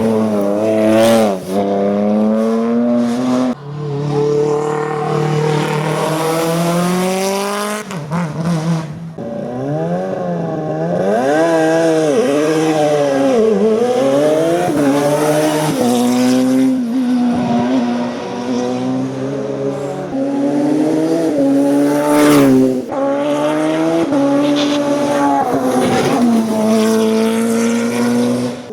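A hillclimb race car's engine is driven hard. Its pitch climbs through each gear and breaks off sharply at the shifts, then dips and rises again several times as the car brakes and accelerates.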